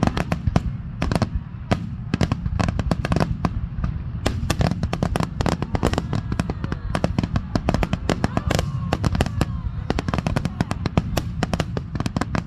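Fireworks finale barrage: a rapid, unbroken run of overlapping bangs and crackles over a continuous low rumble.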